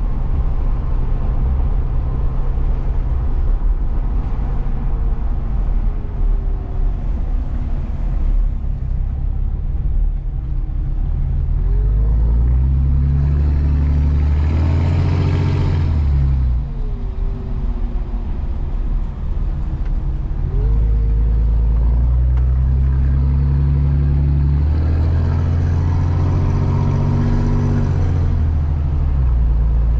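A truck driving on the road: steady engine and road rumble, with the engine pitch rising and falling twice.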